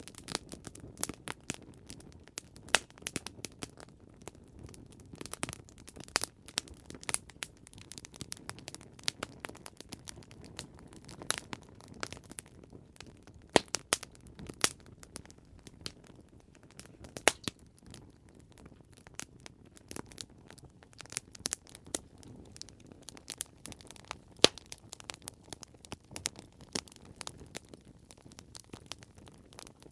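Wood fire crackling: irregular sharp pops and snaps over a soft low hiss of burning.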